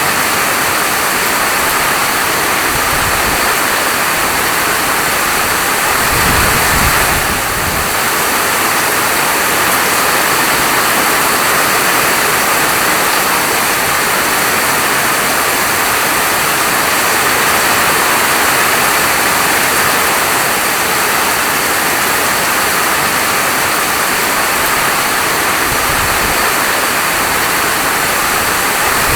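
Steady rain falling as an even, dense hiss, with a brief low rumble swelling about six seconds in.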